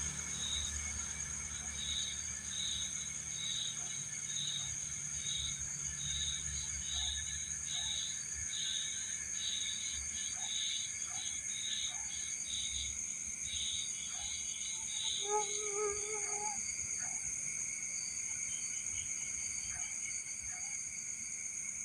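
Night insects: crickets trilling steadily at several high pitches, with a rhythmic chirping of about two chirps a second that stops about two-thirds of the way through. A brief pitched call sounds once, a little past the middle.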